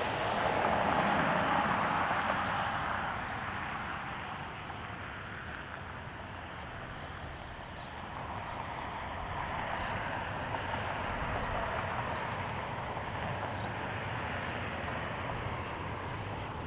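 Jet airliner engine noise, a steady rush that is loudest in the first few seconds, eases off, then builds again about halfway through.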